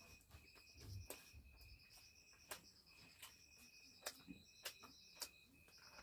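Faint high-pitched chirping in repeated short trains over a steady high whine, with five sharp clicks spread through it.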